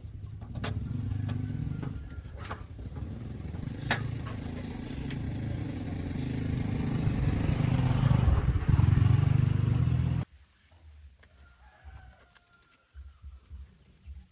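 Tractor engine running under load and growing louder, with a few sharp clicks in the first four seconds. It cuts off abruptly about ten seconds in, leaving a much quieter background.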